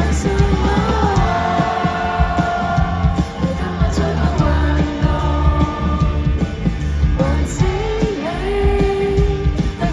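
Band music with a singer: long held vocal notes over bass, drums and guitar.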